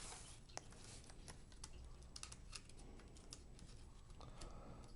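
Faint, scattered small clicks and taps of a laptop's internal cable connector and plastic parts being handled and pressed into place.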